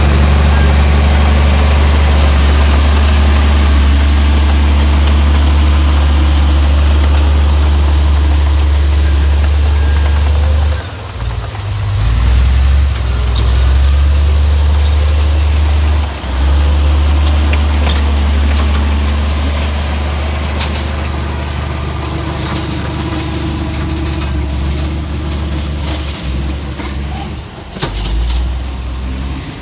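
Heavy diesel earthmoving machine running under load with a steady low engine drone that dips briefly twice in the first half and eases off later, with scattered clanks and knocks in the second half.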